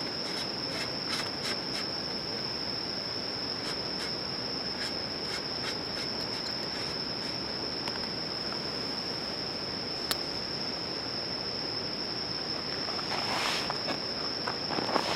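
Insects trilling steadily on one high note, over the crackle of a wood campfire with scattered sharp pops, one stronger pop about two-thirds of the way through. Near the end there is a brief rustling swell.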